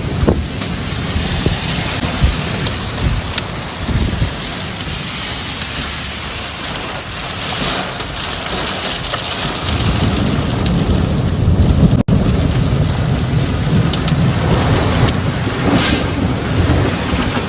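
Heavy rain falling steadily, with thunder rumbling low, more strongly in the second half.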